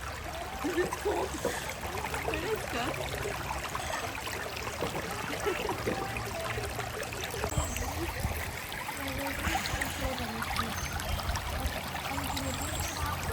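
A stream running steadily, with faint, distant voices mixed in.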